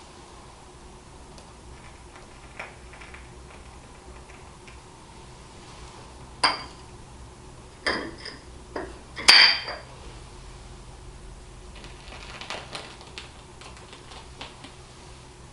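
Several separate clinks of hard objects, like crockery or glass being set down or knocked together, each ringing briefly; the loudest comes just after the middle, and weaker taps follow near the end.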